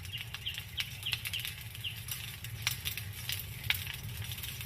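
Outdoor ambience: a series of short, high bird chirps in the first two seconds, scattered sharp clicks, and a steady low rumble.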